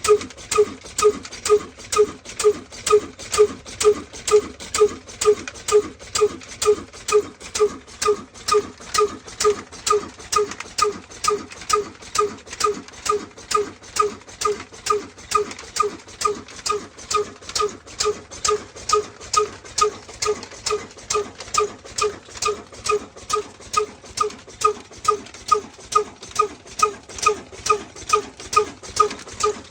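Diesel engine running slowly and evenly, its exhaust beating about twice a second.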